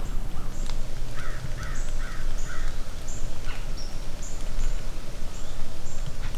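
A crow cawing four times in quick succession, over a steady low rumble of outdoor noise.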